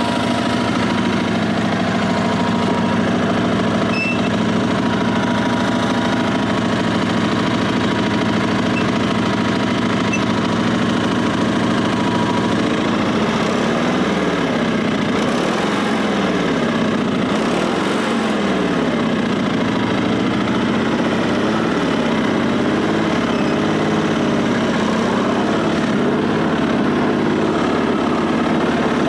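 Twin-cylinder engine of a 1974 Sears SS/16 garden tractor running steadily, its pitch rising and falling for several seconds in the middle before it settles again.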